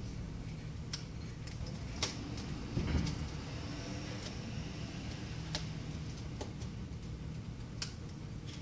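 Scattered small clicks and taps of tools working the glued glass panel off an iPad 3, with a low thud about three seconds in, over a steady low hum.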